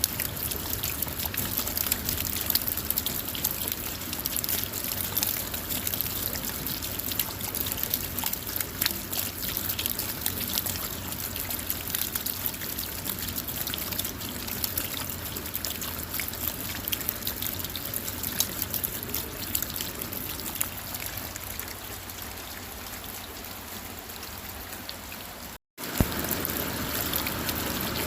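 Steady rain falling on a car, a dense hiss with many individual drop ticks and water trickling. The sound cuts out for a split second near the end, then resumes.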